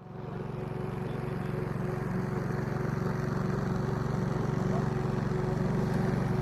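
A steady engine drone: a low hum with a steady higher tone over it, slowly getting a little louder.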